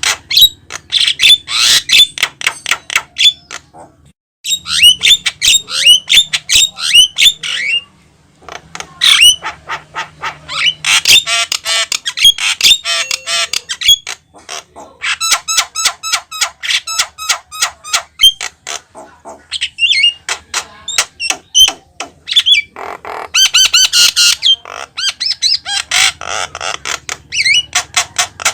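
Javan myna (jalak kebo) singing energetically in long phrases of rapid clicks, harsh rasping notes and short whistles, with brief pauses between phrases.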